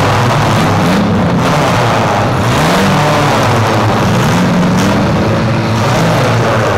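Engines of several demolition-derby SUVs and small trucks revving hard at once, their pitch repeatedly rising and falling as the drivers push and back away.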